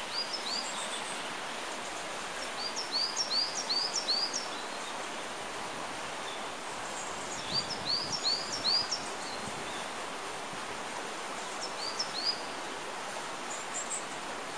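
A small songbird singing short runs of quickly repeated high two-part notes, three or four times over, with pauses between the runs, over a steady hiss of outdoor background noise.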